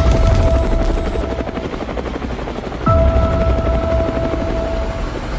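Helicopter sound: a low, rapid rotor chop under a steady whining tone. The whine cuts out about a second and a half in and comes back near the three-second mark with a short falling swoop, repeating the same cycle.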